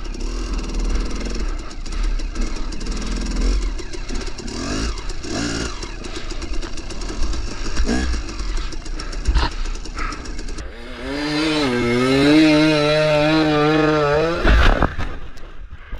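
KTM 300 two-stroke dirt bike engine working under throttle through snow, uneven and clattery at first. From about eleven seconds in it holds a steady, slightly wavering high-revving note for several seconds, then drops away with a sharp knock near the end.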